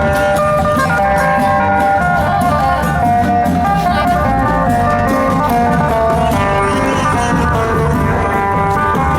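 Loud Isan folk music for the seng bang fai dance: a plucked-string melody over a steady drum beat.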